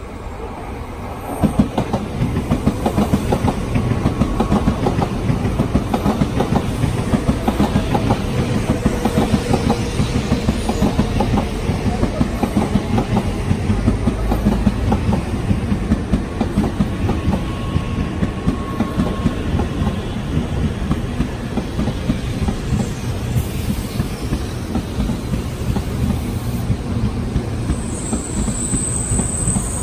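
An N700A Shinkansen bullet train rolling slowly past as it pulls into the station: a loud, steady rumble with its wheels clicking rapidly over the track, rising sharply as the front cars reach the microphone a second or two in. A high hiss comes in near the end.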